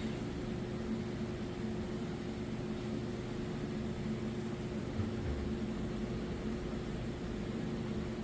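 Steady low hum and hiss of a running machine, with a faint steady tone throughout and no separate events.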